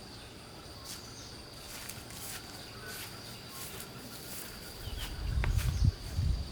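Outdoor rural ambience: a steady high insect drone with a few faint bird chirps and light ticks, then low rumbling bumps from about five seconds in, louder than the rest.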